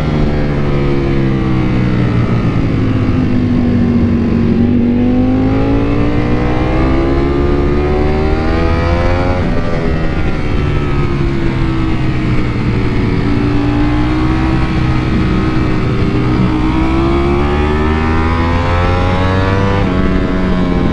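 Ducati Panigale V4 motorcycle's V4 engine running under way. Its pitch falls and rises slowly several times as the throttle is rolled off and on, with a sudden drop about nine seconds in.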